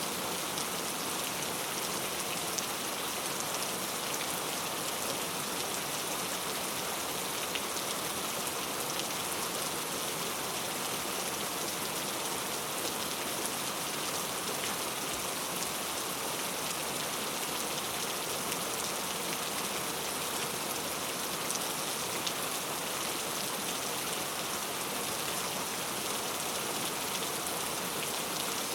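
Steady heavy rain falling on a hard surface, a constant hiss with many fine drop patters and no change in strength.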